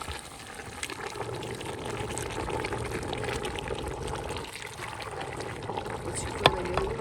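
Water boiling in a cooking pot over a wood fire, with scattered small crackles and clicks.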